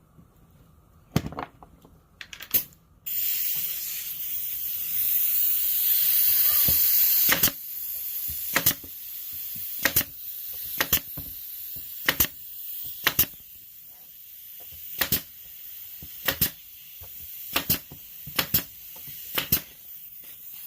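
Pneumatic brad nailer tacking wooden slats, firing about fifteen sharp shots, a quick cluster early on and then roughly one a second, over a steady hiss of compressed air that starts about three seconds in and is loudest for the next few seconds.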